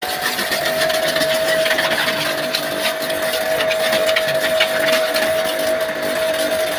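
Pressure washer running: a steady high hum over a hissing spray, with a few small clicks.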